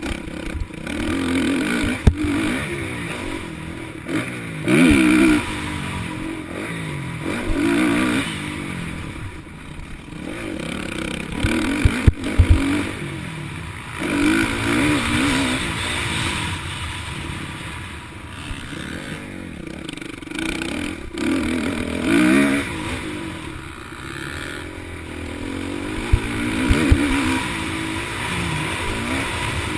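Motocross motorcycles racing round the track, their engines revving up and dropping back in repeated swells every few seconds as bikes go past. A few sharp knocks stand out near the start, in the middle and near the end.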